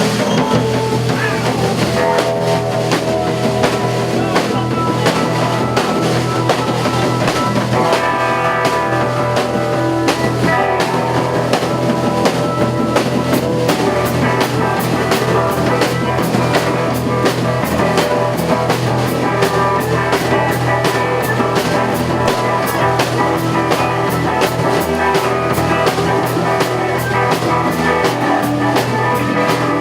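Live band playing: drum kit and guitar, with the drums settling into fast, even hits about a third of the way in.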